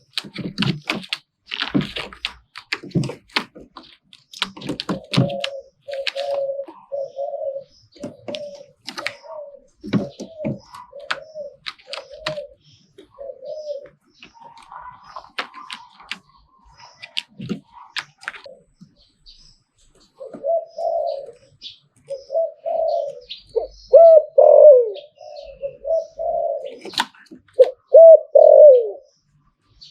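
Spotted dove cooing in repeated phrases of low cooing notes, loudest in the last few seconds. Sharp clicks and knocks come in among the coos, most of them in the first few seconds.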